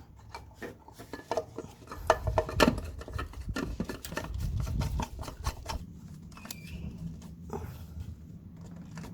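Clicks and knocks of a new oil filter cartridge and its housing cap being handled and fitted into the filter housing of a BMW N13 engine, with a low rumble in the middle and a faint steady hum near the end.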